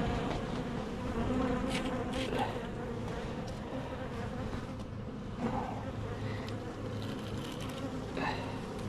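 Honeybees buzzing steadily in an opened hive, with a few short scrapes and cracks as a frame stuck with propolis and burr comb is pried apart.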